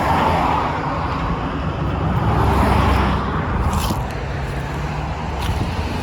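Car and road noise: a steady low rumble, with a rushing sound that swells near the start and again about two to three seconds in.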